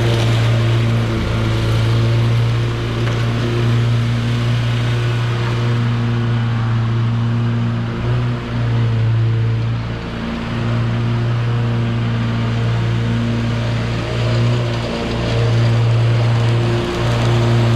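Mini skid steer's engine running steadily as the machine works, with brief dips in its sound several times.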